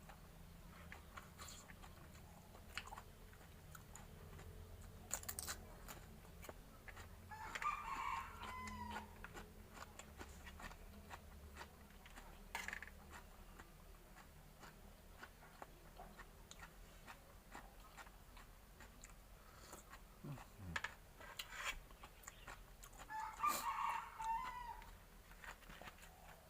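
A rooster crows twice, about eight seconds in and again near the end, over quiet close-up chewing with small clicks and crunches of food.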